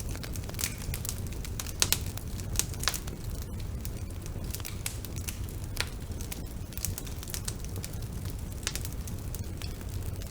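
Bonfire burning: a steady low rumble of flames with irregular sharp crackles and pops, a few louder snaps about two to three seconds in.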